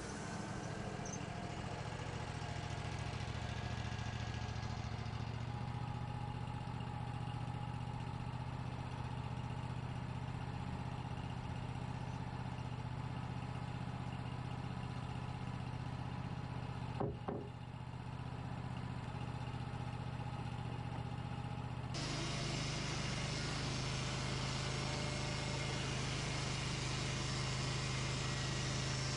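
Portable sawmill's engine running steadily, with one short sharp knock partway through. The sound turns abruptly louder and fuller about three-quarters of the way in.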